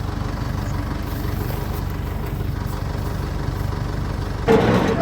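A working machine's engine running steadily at idle, with a brief louder sound near the end.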